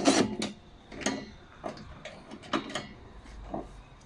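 Irregular clicks and light knocks of small mower parts and hand tools being handled during disassembly, with a louder clatter at the very start and then about five separate clicks.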